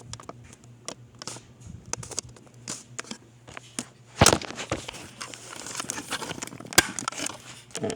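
Camera handling noise as it is taken off its tripod: rustling, clicks and scrapes, with a louder knock about four seconds in and a sharp click near seven seconds. A faint steady hum runs underneath.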